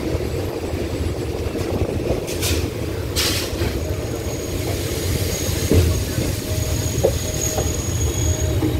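Train running slowly along the track, heard from on board: a steady low rumble with clatter, two short hisses about two and a half and three seconds in, and a thin high wheel squeal from about three and a half seconds in until near the end.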